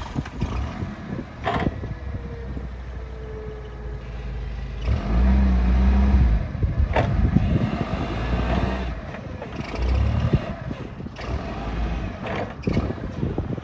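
2016 Toyota forklift engine running just after starting, revving up twice, about five seconds in and again around ten seconds, with a few sharp clanks along the way.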